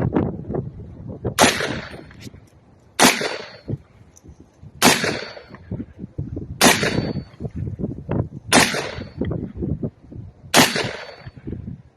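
Springfield Armory M1A semi-automatic rifle fired six times, about two seconds apart, until the magazine is empty. Wind buffets the microphone between the shots.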